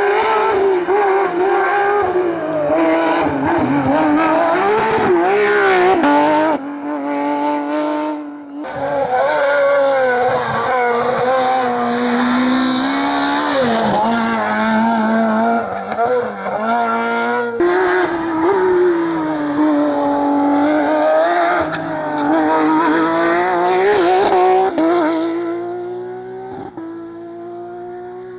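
Rally car engine at full throttle, its pitch climbing and dropping with gear changes and lifts off the throttle, with a few abrupt breaks. Tyres squeal about halfway through, and near the end the engine fades as the car pulls away up through the gears.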